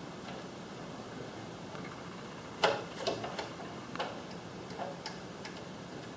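A handful of sharp clicks and taps from handling the replacement logic board in a garage door opener's housing. The first click, about two and a half seconds in, is the loudest; the rest follow irregularly over the next two seconds.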